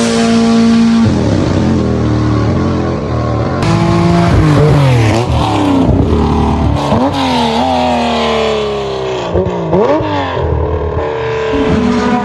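Rally cars' engines at full throttle on a stage. The note climbs and drops sharply over and over as gears change, and there is a long falling note as a car passes and pulls away.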